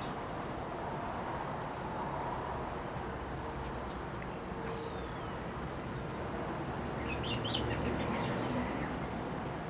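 Small birds chirping over a steady low rumble. One long, falling whistle comes a few seconds in, and a quick burst of high chirps about seven seconds in, when the rumble also swells.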